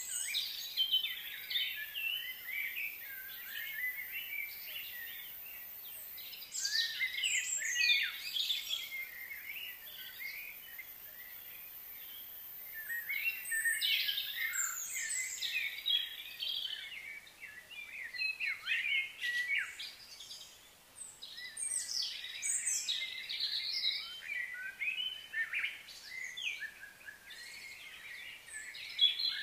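Birds chirping and singing in a busy chorus of short, overlapping calls that come in irregular bursts, easing off briefly twice.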